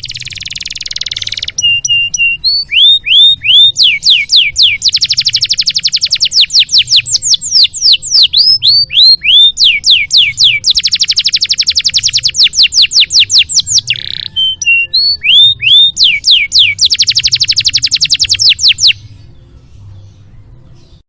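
Domestic canary in full song. It opens with a short harsh, buzzy phrase. Then come fast rolling trills of rapidly repeated falling notes, alternating with slower, drawn-out down-slurred whistles. The song stops about two seconds before the end.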